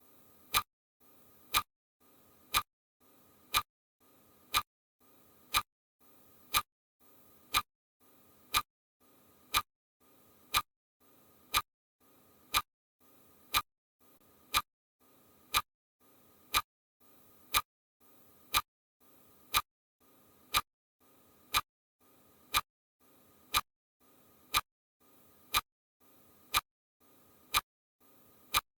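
Regular ticking: one sharp tick about every second, evenly spaced, with a faint hiss between ticks.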